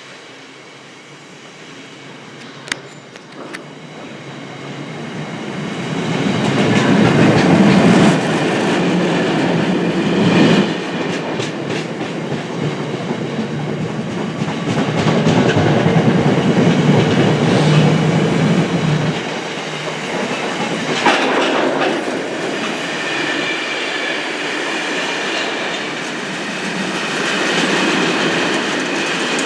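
Long intermodal freight train behind a Class 60 diesel locomotive passing through, wagon wheels clattering over the rail joints. It swells from fairly quiet to loud over the first several seconds and then keeps up a steady rumble and clatter.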